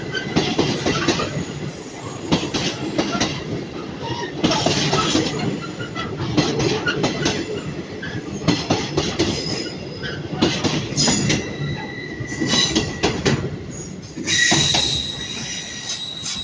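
Freight train hauled by a Class 66 diesel locomotive running through, its wagons' wheels clattering in a rapid run of knocks over the rail joints. Wheel squeal comes in toward the end, a high steady squeal that is loudest in the last couple of seconds.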